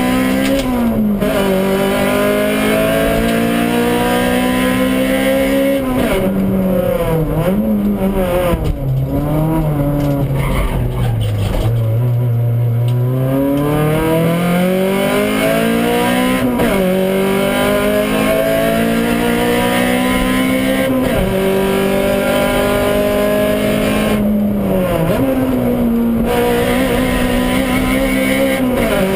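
Honda Civic Type R's four-cylinder engine heard from inside the cabin under hard acceleration, its pitch climbing steadily through each gear and dropping sharply at about half a dozen quick gear changes. Around the middle the revs fall to a low point as the car slows for a corner, then climb hard again.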